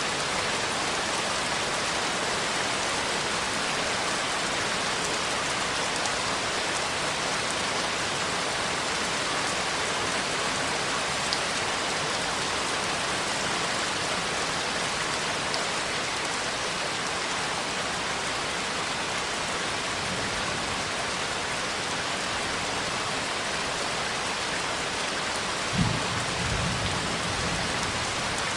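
Steady rain falling, an even hiss with no breaks; near the end a short low rumble of thunder.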